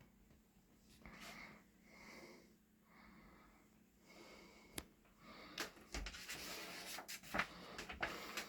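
Quiet, close breathing near the microphone, soft and wheezy, with faint paper rustling and clicks from the guidebook being handled in the second half.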